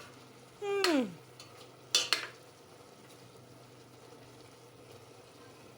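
A woman's wordless 'oh'-like exclamation, falling in pitch, about a second in, and two sharp clicks at about two seconds. After that, only the steady faint bubbling hiss of a pot of chicken feet boiling on the cooker, with a low hum.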